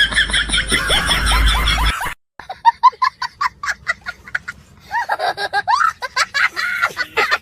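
People laughing in runs of short, quick giggles. The sound breaks off briefly about two seconds in, then the laughter starts again.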